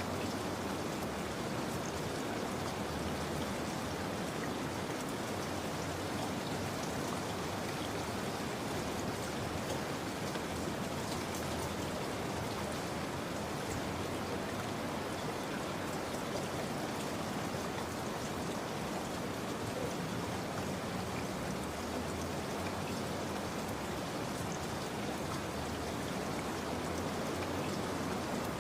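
Steady rainfall with scattered droplet patter, an even rain ambience with no change in strength.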